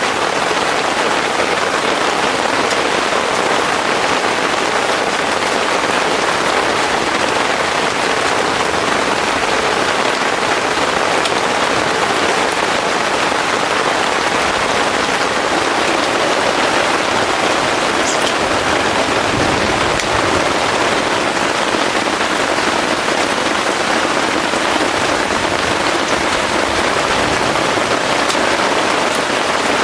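Heavy rain pouring steadily, with a low rumble swelling briefly about two-thirds of the way through.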